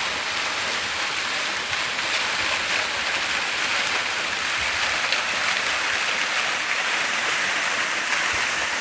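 Steady rush of a waterfall about 20 metres high, water pouring down without a break.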